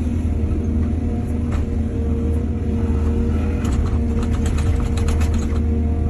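Diesel engine of an excavator running steadily with a deep hum, and a quick run of rattling knocks a little past the middle.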